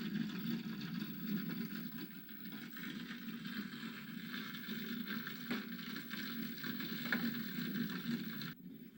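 Crackling and hissing of a recorded fire played from a virtual fireplace video, steady with a few faint pops; the higher crackle drops away abruptly near the end.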